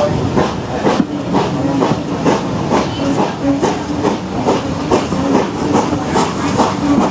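Train running slowly, with a regular beat about twice a second over a steady hiss.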